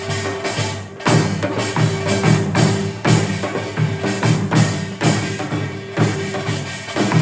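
Live Korean traditional (gugak) ensemble music: drums and other percussion strike an accented beat about once a second over held low pitched tones.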